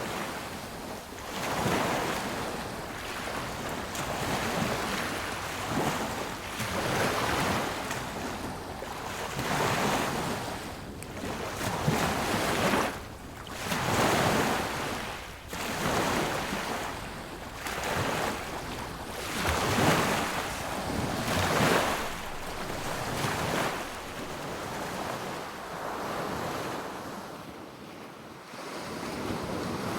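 Sea waves breaking and washing onto a beach. The surf swells and falls every couple of seconds and eases off for a few seconds near the end.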